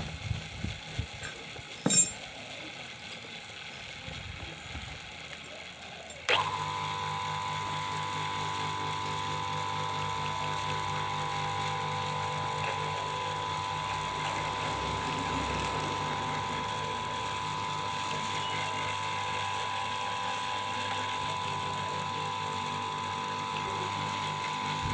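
A sharp click about two seconds in. About six seconds in, a lathe motor starts abruptly and runs steadily with an even whine.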